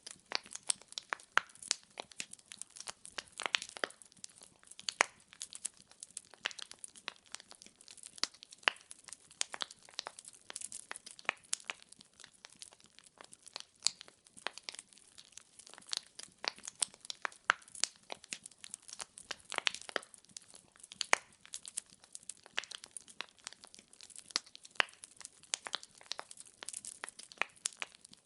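Wood fire in a fireplace crackling: logs popping and snapping in irregular sharp clicks, several a second, with louder snaps scattered throughout.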